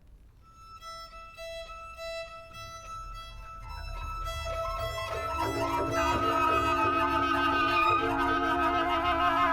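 Contemporary chamber ensemble of flute, clarinet, violin, double bass and piano. High held notes enter softly out of near silence and build up, with lower notes joining about five seconds in and the music growing steadily louder.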